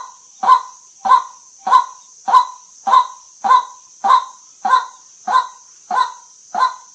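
White-breasted waterhen giving its monotonous 'kwak' call: short, even notes repeated about every 0.6 s, a dozen in a row.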